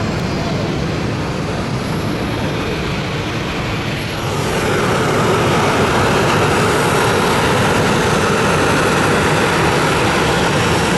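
Jet airliner engine noise, a steady loud rush that grows louder about four seconds in.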